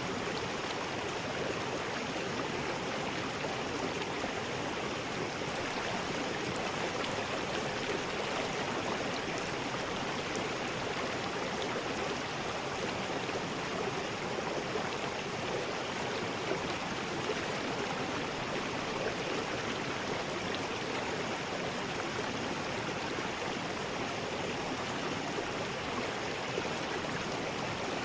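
River rapids: a steady, even rush of fast water flowing over rocks.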